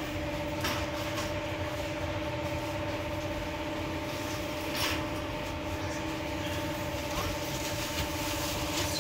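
Electric commuter train carriage: a steady electrical hum in three constant tones over a low rumble, with short clatters about a second in and again about five seconds in.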